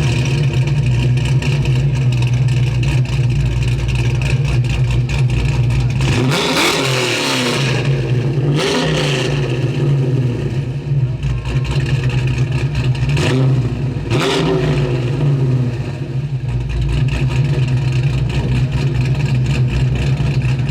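351 Cleveland V8 in a 1966 Ford Falcon idling steadily, revved in short throttle blips: a longer one about six seconds in, another near nine seconds, and two quick ones around thirteen and fourteen seconds.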